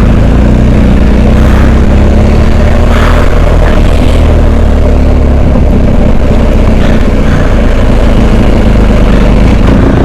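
Adventure motorcycle engine running steadily at low revs while riding, loud and close to the microphone.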